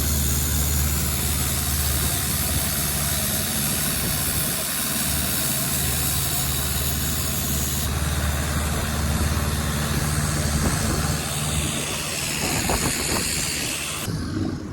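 Boat engine running steadily under way, with a constant hiss of wind and water over it.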